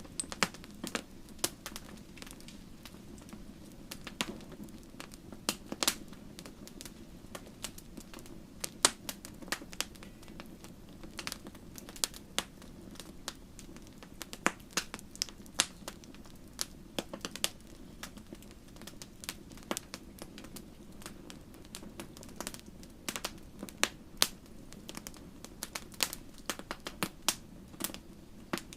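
Wood fire crackling in a fireplace: irregular sharp pops and snaps, several a second, over a soft steady rush of burning.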